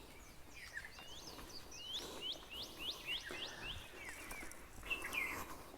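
A bird chirping over faint outdoor background noise. There are scattered calls, then a quick run of about eight short, downward-sweeping notes about two seconds in, and a few more calls near the end.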